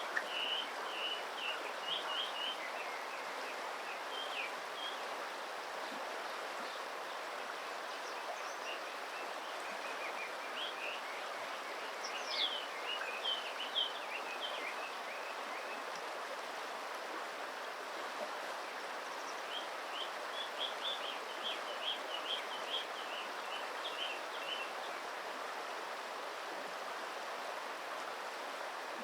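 Steady rushing of flowing stream water, with several spells of short, high bird peeps over it.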